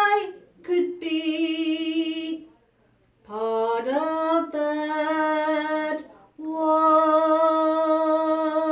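A woman singing unaccompanied in three sustained phrases. The second rises in pitch, and the last is a long held note with vibrato.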